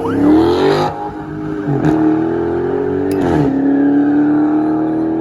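Highway patrol car's V8 engine accelerating hard, its note climbing and dropping back at an upshift about a second in and again about three and a half seconds in.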